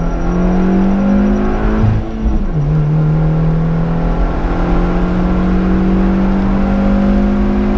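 Opel Corsa GSi rally car's engine under full throttle, heard from inside the car: the revs climb, drop sharply with an upshift about two and a half seconds in, then climb slowly again through the next gear.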